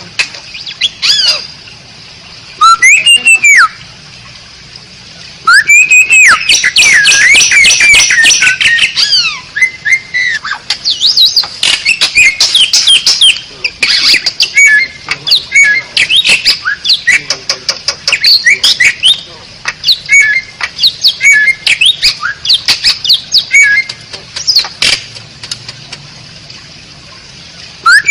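Asian pied starling (jalak suren) singing loudly: a varied run of gliding whistles, squawks and clicking chatter. It comes in bursts, with one long unbroken phrase, scattered shorter phrases, and a few seconds' pause near the end.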